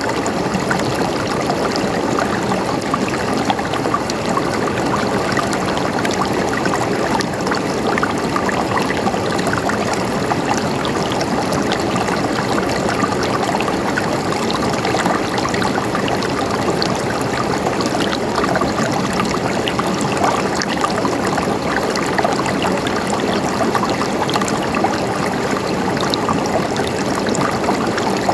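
Stream water flowing and gurgling steadily over rocks, a continuous rush with small splashes and trickles.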